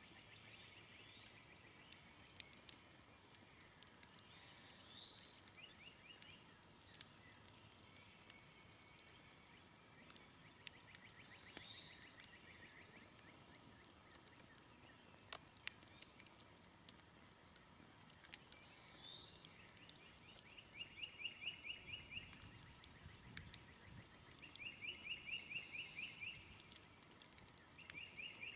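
Smoldering campfire crackling faintly with sparse sharp pops, under quiet outdoor calls: short rising bird chirps every few seconds, and in the second half a rapid pulsed trill heard three times.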